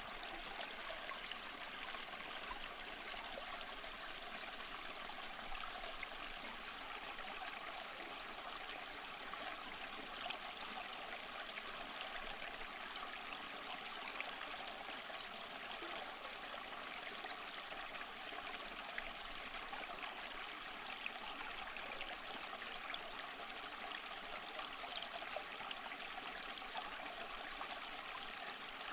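Running water falling steadily, a continuous splashing rush with no deep rumble.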